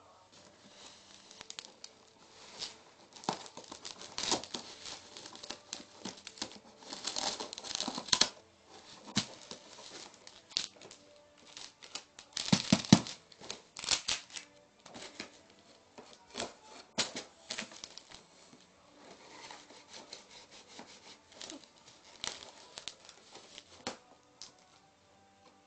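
Packaging being cut with a kitchen knife, torn and crinkled, in irregular bursts of rustling with short clicks and knocks from handling, loudest about halfway through.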